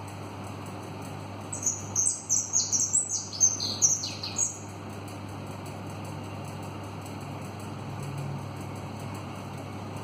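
A small bird singing a quick run of about a dozen high, short chirps that step down in pitch over about three seconds.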